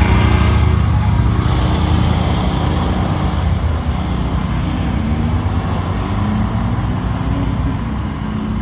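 A road vehicle's engine running with road noise, a steady low rumble whose pitch creeps upward in the second half as it speeds up.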